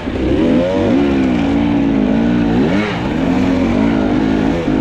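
Two-stroke enduro dirt bike engine revving under load on a climb, its pitch rising and falling repeatedly as the throttle is worked, with sharper revs about half a second in, near three seconds, and near the end.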